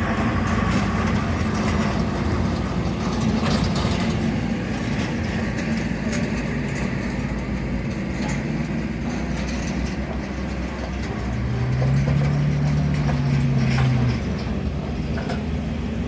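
Historic military vehicle engines running as vehicles move through an arena, with scattered mechanical clanks and rattles; one engine revs up briefly about twelve seconds in, then settles back.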